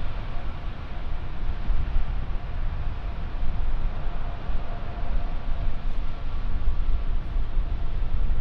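Jet airliner engines running, a steady rumble with a faint whine.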